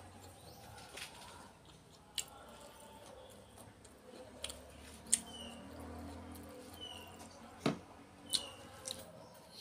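Close-miked eating sounds: a person chewing fresh vegetables and fried fish, with wet mouth noises and scattered sharp clicks and crunches. A few short high chirps come in the second half.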